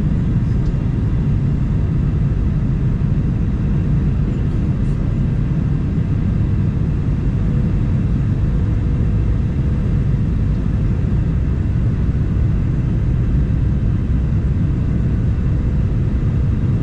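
Cabin noise inside a Boeing 737-900 airliner, heard from a window seat: a steady low rumble of its CFM56 jet engines and the airflow, with a faint steady hum above it, on final approach to land.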